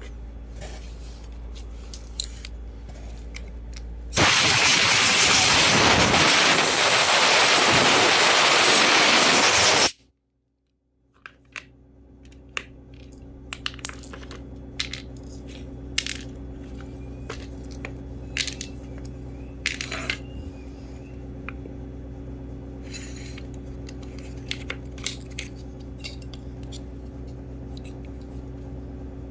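A loud, steady hiss of a pressurized gas jet lasting about six seconds and cutting off abruptly, with small metallic clicks and taps of parts being handled before and after it.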